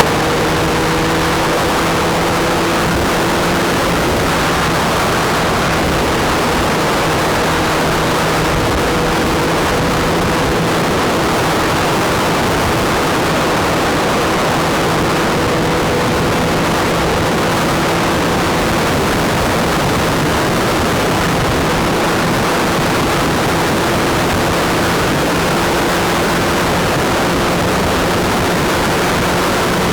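Kawasaki Z1000 inline-four motorcycle cruising at a steady speed: its engine drones at an even pitch under a heavy rush of wind noise.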